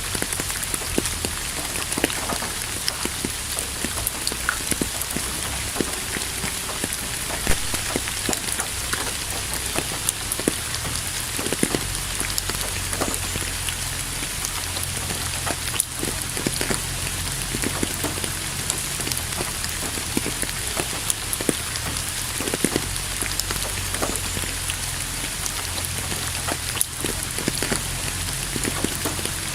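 Steady rainfall: an even hiss of rain, with many individual drops ticking and pattering close by.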